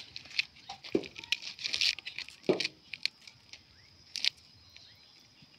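Green corn husks being torn off and rustled as ears are shucked by hand, in irregular short bursts with a couple of dull knocks.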